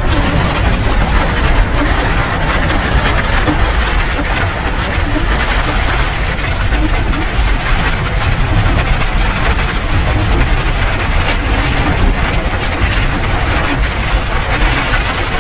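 Steady rain: an even, unbroken hiss over a deep low rumble.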